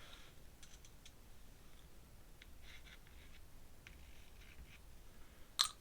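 Faint scratching and dabbing of a drawing tool on paper, a few short strokes, with one sharp click or tap near the end.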